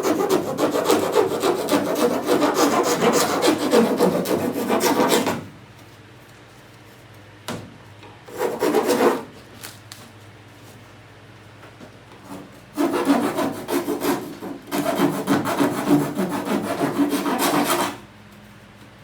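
Round hand file rasping back and forth on fibreglass in quick strokes, trimming the race car hood so it drops onto its pins. Three spells of filing: about five seconds at the start, a short burst near the middle, and another five seconds toward the end.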